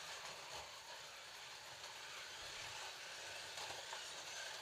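Scalextric slot cars running on the plastic track: a faint, steady whir of their small electric motors.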